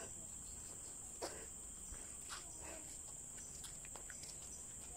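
Steady, high-pitched chirring of an insect chorus, with a few faint short clicks or taps.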